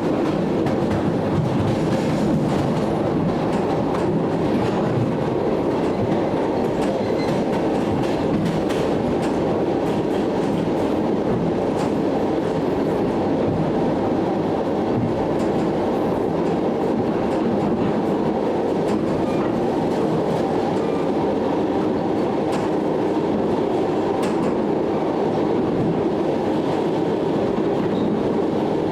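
ED9M electric multiple-unit train running along the line, heard from inside a carriage: a steady rumble of wheels on rails with scattered clicks from the rail joints.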